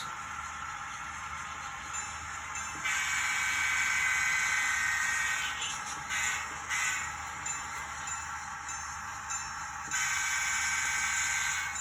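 Model diesel locomotive's onboard sound system sounding its horn through a small speaker: a long blast, two short toots, then another long blast, over a steady running hum.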